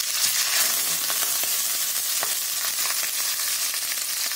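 Raw chicken pieces sizzling in hot oil as they are laid into the pot to sear: a steady frying hiss with scattered small crackles.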